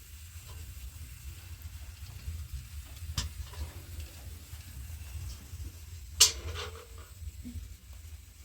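Household handling noises: a light click about three seconds in and one sharp, ringing clack about six seconds in, over a steady low rumble.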